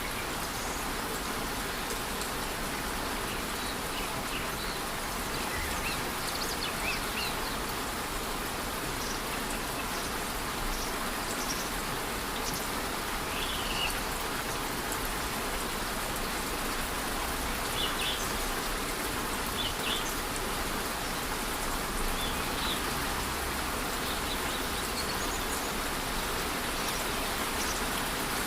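A rainforest waterfall and light rain making a steady, even rushing hiss, with short high bird chirps scattered through it.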